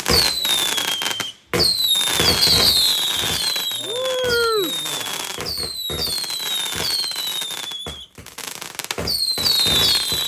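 Fireworks display: a steady mass of crackling and bangs with many shrill whistles, each sliding down in pitch, coming in clusters. A short rising-and-falling tone stands out about four seconds in.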